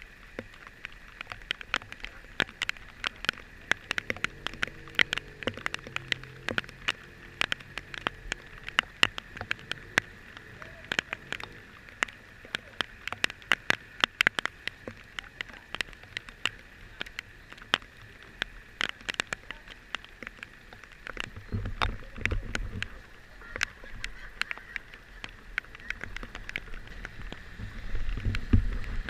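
Raindrops tapping irregularly on a moving vehicle over a steady hiss, with a low rumble rising briefly about three-quarters of the way through and again near the end.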